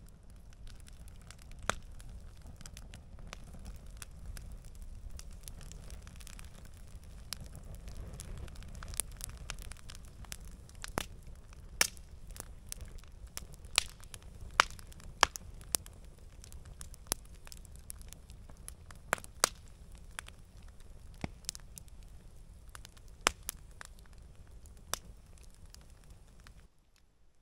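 Campfire crackling: a steady low rush of burning wood with irregular sharp pops and snaps.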